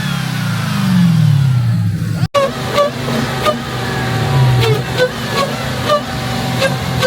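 Car engine running, its pitch sliding down over about a second as the revs fall. After a brief cut, a steadier engine hum continues with a string of short, sharp high chirps about every half second.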